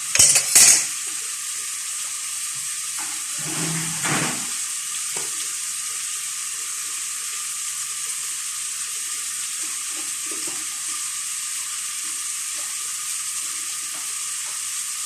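Food sizzling in a cooking pot with a steady hiss, with two sharp clatters of a utensil against the pot right at the start.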